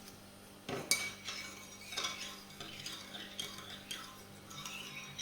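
A kitchen utensil knocking and clinking against a mixing bowl about a second in, followed by irregular scraping and stirring sounds in the bowl.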